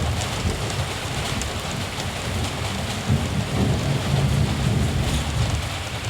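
Steady rain with a low rumble of distant thunder that swells about halfway through and eases off near the end.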